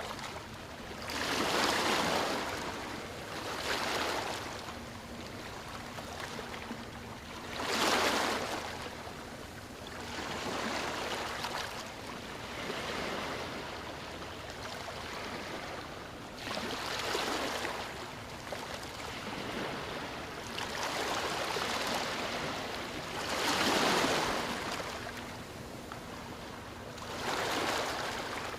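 Moving water: a steady rush that swells into louder surges every two to four seconds.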